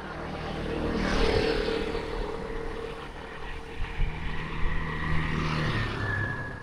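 Motor vehicles passing close by: engine hum and road noise swell about a second in, and a second vehicle passes a few seconds later.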